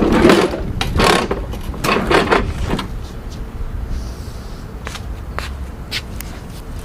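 A run of scrapes and knocks from metal parts and tools being handled during mower reassembly, then scattered light clicks over a steady low rumble.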